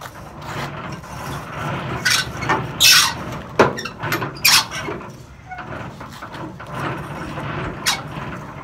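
Metal parts of a box truck being dropped down by hand, scraping and squealing in a string of loud strokes, several of them sliding in pitch, over a low rumble.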